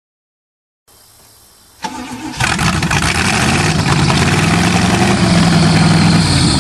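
An old car's engine is cranked by the starter about two seconds in and catches almost at once, then runs loud and steady with the hood open. It is a cold start after months of sitting, just after a seized alternator was freed by turning it by hand.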